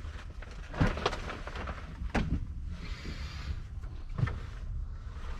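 Things being moved about in a lorry cab's sleeper area: several sharp knocks and a brief rustle over a low steady rumble.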